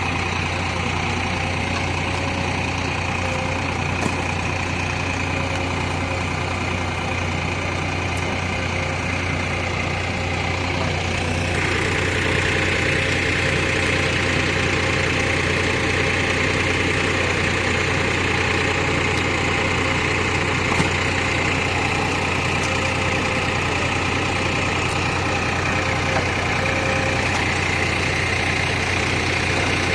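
JCB 3DX backhoe loader's diesel engine running steadily, growing louder about twelve seconds in, with a few faint knocks.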